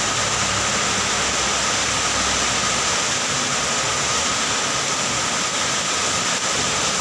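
Steady rushing noise of a vehicle travelling through rain, with road, wind and rain noise and a low engine rumble underneath that thins out about three seconds in.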